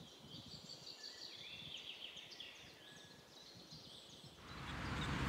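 Faint chirping of small songbirds, repeated short high calls. Near the end, wind rumble on the microphone rises.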